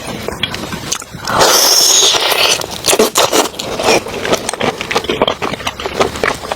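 Close-miked eating sounds: a loud rasping stretch about a second and a half in, followed by a run of rapid wet clicks of chewing.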